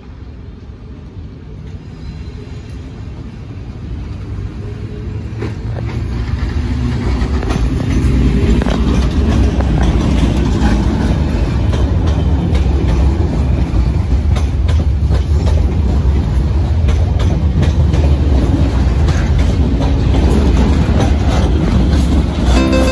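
Network Rail test train, yellow coaches hauled by Class 73 locomotives, passing close along a platform. A deep rumble grows over the first several seconds and then holds steady and loud, with repeated clicks of the wheels over the track.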